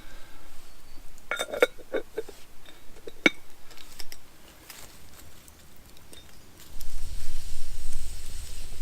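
Metal cookware clinking and knocking: several sharp clinks with brief ringing, clustered in the first few seconds. Near the end a steady rushing noise with a low rumble sets in.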